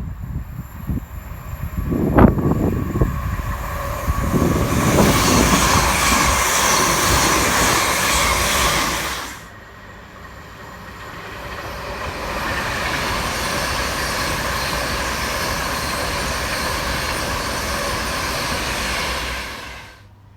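Train passing at speed with a loud, even rush of wheel and air noise, and wind buffeting the microphone at the start. The noise drops off abruptly about nine seconds in. A second stretch of train noise builds a couple of seconds later and holds steady until it cuts off sharply near the end.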